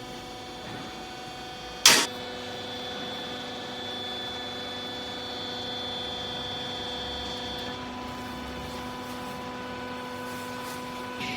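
Hydraulic baler's electric motor and pump running with a steady hum, with a single sharp clank about two seconds in.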